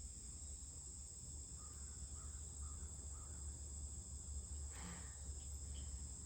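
Faint, steady chorus of crickets: a continuous high trill, over a low hum. A few faint short chirps come about two seconds in.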